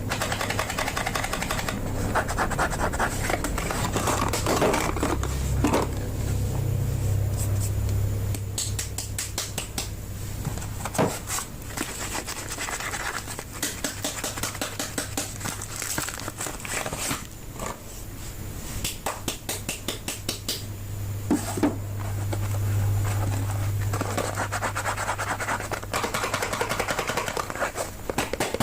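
Soap bars being unwrapped by hand: wrappers rubbing, scratching and crinkling, with many short sharp clicks and taps.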